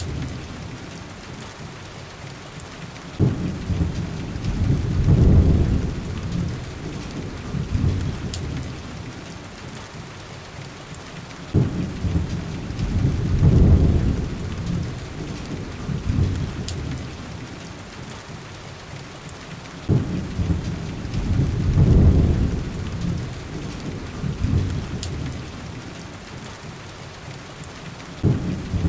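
Heavy rain falling steadily, with low thunder rolling through it: three rumbles about eight seconds apart, each opening with a sudden crack and swelling to a deep rumble a couple of seconds later, and a fourth starting near the end.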